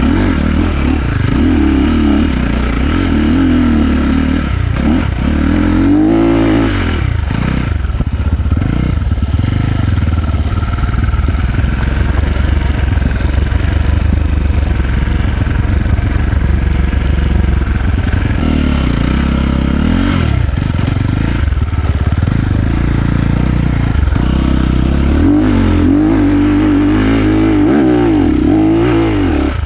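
Enduro motorcycle engine running hard as the bike is ridden, its revs rising and falling again and again.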